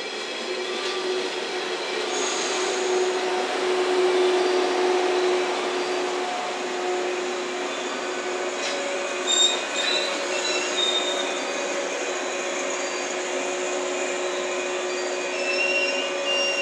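JNR 115-series electric train moving along the platform: steady running noise with a humming tone, short high squeals from the wheels or brakes near the middle and toward the end, and a sharp knock about nine seconds in.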